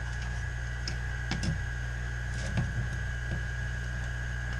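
Steady electrical hum with a thin high whine from bench equipment. Over it come a few light clicks and taps as parts are handled on the relay circuit board.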